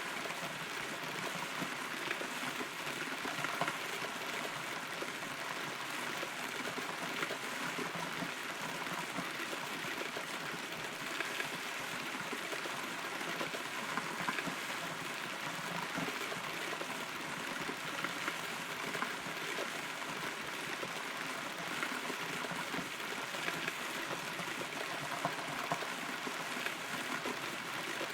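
Steady rain heard from inside a hollow, rotten tree trunk, with frequent individual drops standing out.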